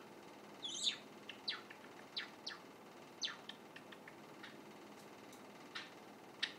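Young white Java sparrow practising its song: a scattered string of short, high, downward-sliding chirps with irregular gaps, the halting phrases of a juvenile still learning to sing.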